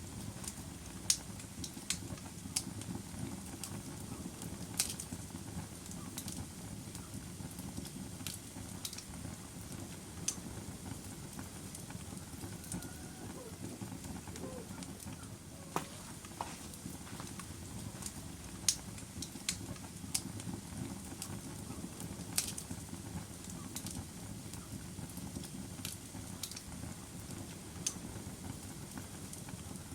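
Log fire burning: a steady low rustle of flames with sharp, irregular crackles and pops from the burning wood, roughly one every second or so.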